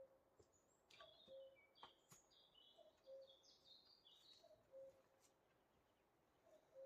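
Faint birdsong: a low two-note call repeats about every second and a half, and a quick twittering phrase of high stepped notes runs from about one second in to about four and a half seconds in. A few faint clicks are also heard.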